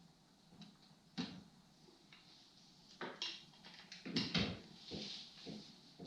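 Clinks and knocks of a wrench and metal engine parts being handled while a two-stroke snowmobile engine is unbolted and taken apart, with a few sharp knocks about a second in, at three seconds and around four seconds, and some scraping between them.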